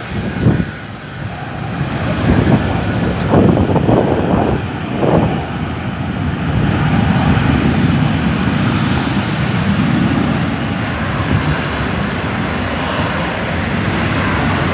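A Qatar Airways jet airliner's engines and rushing air making a dense, steady noise. Several uneven rumbling surges come in the first five seconds before the noise evens out.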